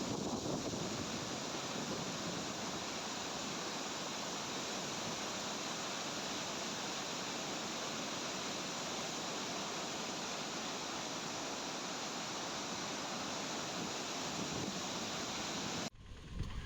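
Water pouring through a dam's spillway in a steady, even rush. It cuts off abruptly near the end.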